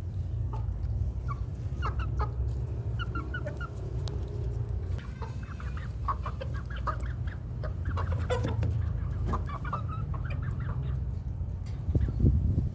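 Young village chickens, about eleven weeks old, making many short, scattered clucks over a steady low rumble.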